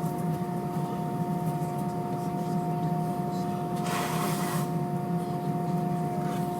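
Cabin noise aboard an Airbus A320-232 with IAE V2500 engines: a steady low hum with a few steady engine tones. About four seconds in there is a brief rush of hissing noise lasting about half a second.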